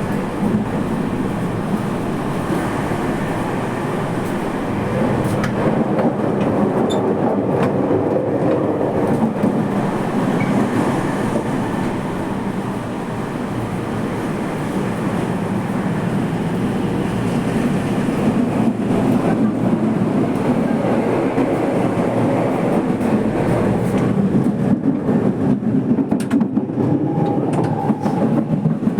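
Toei Mita Line subway train running between stations, heard from inside the car: a steady rumble of wheels and running gear, with some clatter over the rails near the end.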